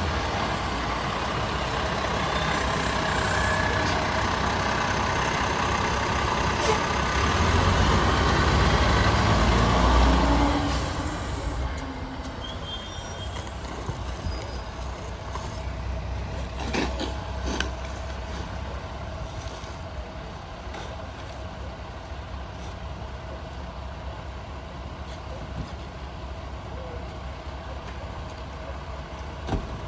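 International HV garbage truck with a Heil rear-loader body running loud for about the first ten seconds, growing louder, then dropping back to a lower steady run. A few sharp knocks come through later on.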